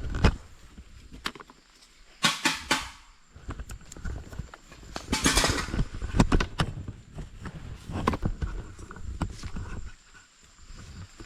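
Scattered sharp knocks and taps, which the campers take for someone banging on a pot, with two short bursts of rustling noise.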